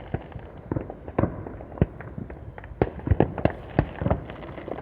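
Fireworks and firecrackers going off all around at various distances: an irregular scatter of pops and bangs, the loudest cracks near the middle and in the second half.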